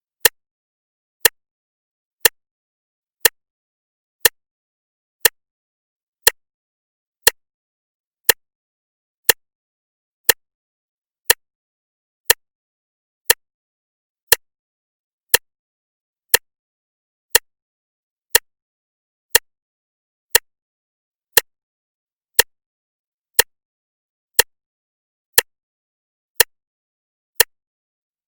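Clock ticking, one sharp tick a second, each tick alike, with silence between them.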